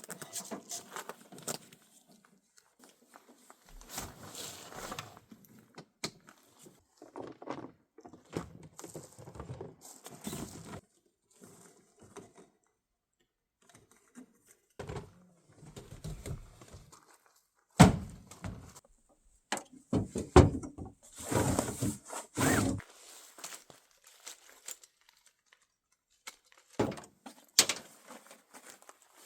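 Irregular thunks, knocks and rustling of camping gear being handled around a truck, with sharper knocks a little over halfway through and a couple more near the end.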